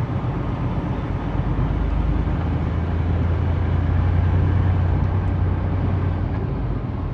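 Semi truck's diesel engine running, heard from inside the cab: a steady low drone that grows a little louder a few seconds in and eases off near the end.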